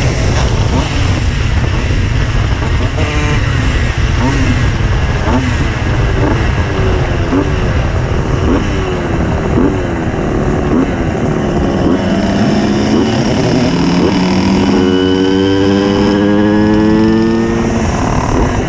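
Tuned 90 cc reed-valve two-stroke Simson S51 moped engine under way, revving in quick repeated short rises, then pulling up through the revs in one long rising tone near the end.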